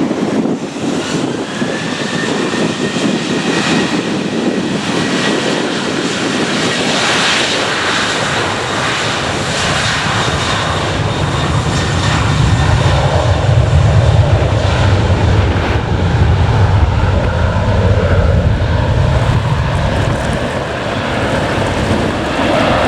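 Boeing 737-800 jet engines, with its CFM56 turbofans: a whine rising early on, then a deep rumble that builds about halfway through and eases off near the end.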